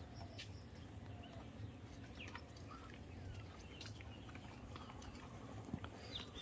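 Faint, scattered bird chirps and short calls over a quiet background with a low steady rumble.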